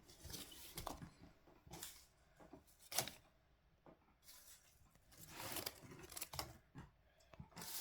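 Leaves rustling and crinkling in short, scattered crackles as they are handled and placed into an insect enclosure; the sharpest crackle comes about three seconds in.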